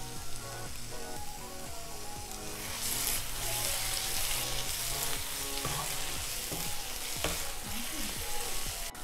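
Onion-tomato masala sizzling in a nonstick frying pan, turned and scraped with a wooden spatula. The sizzle grows louder about three seconds in, when the stirring starts. The masala is being fried down until the oil separates.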